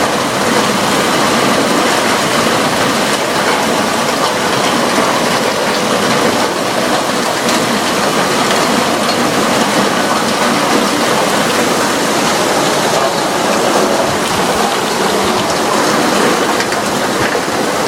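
Heavy rain falling steadily in a thunderstorm, a dense even hiss.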